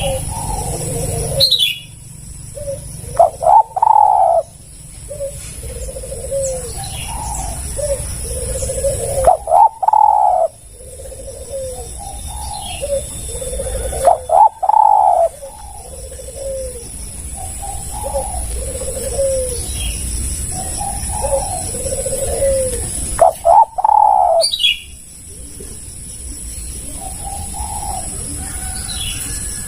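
Spotted doves cooing over and over in phrases of short, low notes, with a few louder calls among them.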